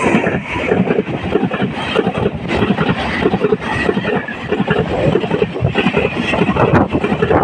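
A train passing close by: a loud, continuous rumble with fast, irregular clatter of wheels on the rails, and wind buffeting the microphone.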